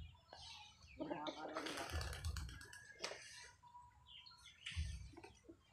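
Faint bird chirps and calls, mixed with short low rumbling bursts.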